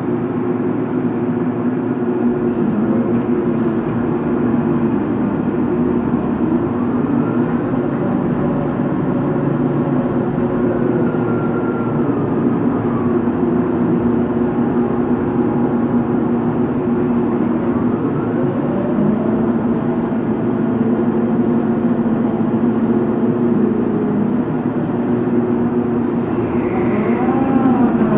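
Heavy diesel machinery running steadily with a loud, even drone, with a few faint sliding whines rising and falling over it.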